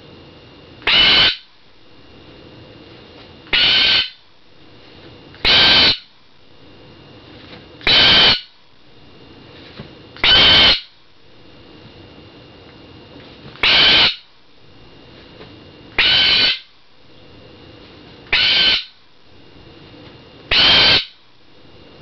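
Pet bird screaming for attention: nine loud, short calls repeated about every two seconds.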